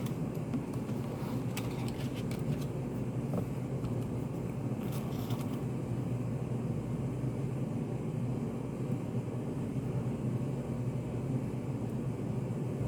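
Steady low hum of a study café's room ambience, with a few faint clicks in the first seconds and a short hiss about five seconds in.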